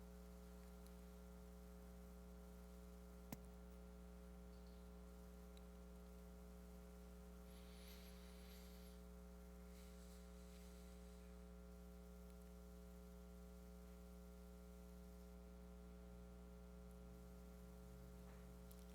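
Near silence with a steady electrical mains hum, and a single faint click about three seconds in.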